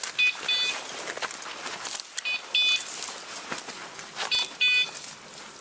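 A hunting dog's beeper collar sounding a double electronic beep about every two seconds. Under it are footsteps and brush rustling as the hunters move through the cover.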